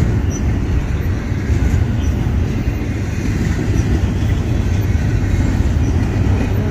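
Double-stack container cars of a BNSF intermodal freight train rolling past close by: a loud, steady low rumble of steel wheels on rail.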